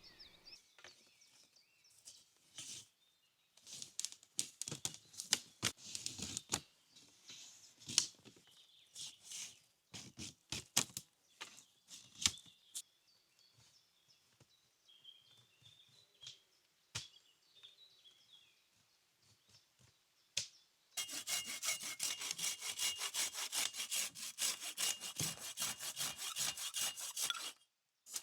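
Hand saw cutting wood. Scattered snaps and scrapes of wood being handled come first, then a fast, steady run of sawing strokes for about six seconds, stopping shortly before the end.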